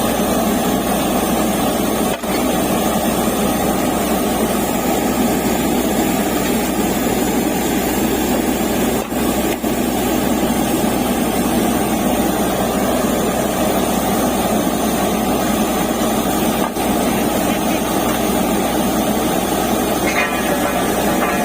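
Borewell drilling rig running steadily under load, a dense mechanical noise with a low hum beneath it.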